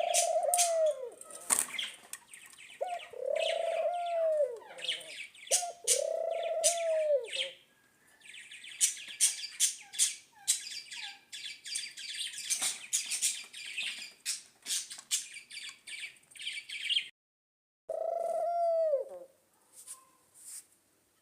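Birds calling: a low, arched call about a second long, repeated four times several seconds apart, with dense high chirping and twittering between them. The sound drops out briefly near the end.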